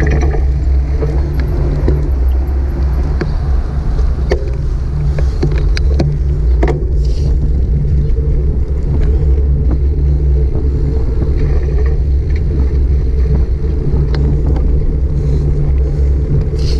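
Steady low rumble of riding a bicycle, heard through a GoPro action camera's microphone: wind and road noise, with a few sharp clicks and rattles.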